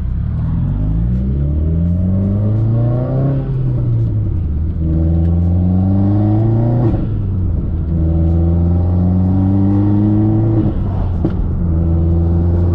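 Heavily modified, turbocharged Subaru WRX flat-four engine accelerating hard through the gears. It climbs in pitch, drops at each of three gear shifts about 3.5, 7 and 11 seconds in, and gives a short pop at the shifts.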